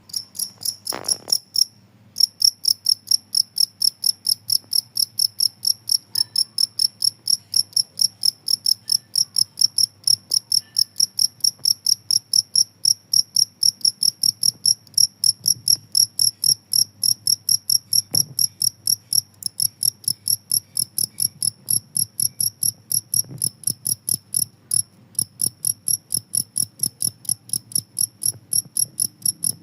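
Two-spotted field cricket (jangkrik kalung) chirping steadily, about three loud, high chirps a second, with a brief pause about two seconds in.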